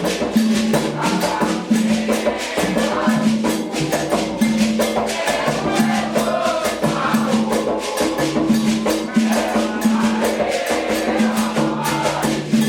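Candomblé ceremonial music: a fast, steady rhythm of drums and shakers, with voices singing over it.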